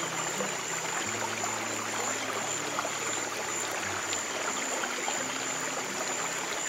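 Steady flowing water of a stream, an even rushing trickle, with soft low piano notes held under it and a thin steady high tone.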